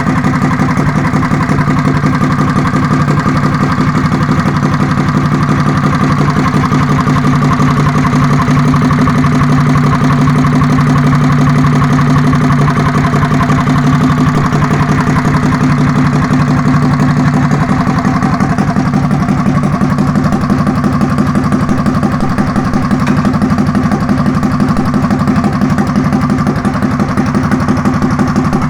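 Predator 212 single-cylinder four-stroke engine on a mini bike, idling steadily through its aftermarket exhaust pipe.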